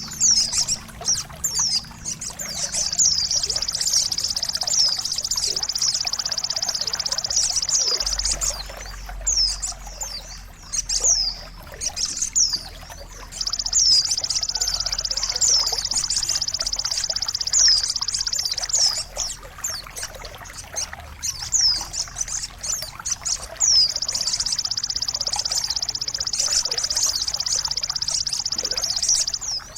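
A songbird singing long, high trills of several seconds each, broken by quick sweeping chirps, over a steady trickle of water. This is a mastering and therapy track played to caged songbirds to tutor them and to get a bird that has stopped singing to sing again.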